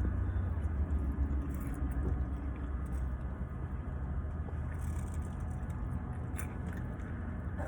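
Low steady rumble of a car heard from inside the cabin, easing off a little after the first couple of seconds, with a few faint clicks near the end.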